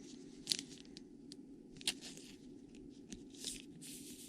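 Glossy trading cards being handled and slid past one another in the hands: three short, sharp swishes, roughly one every one and a half seconds, over a faint steady hum.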